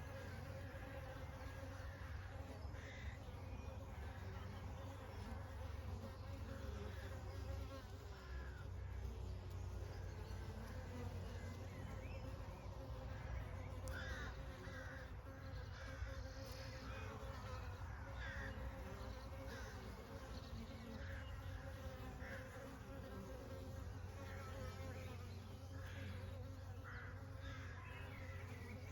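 Swarm of honey bees buzzing in a steady, continuous drone.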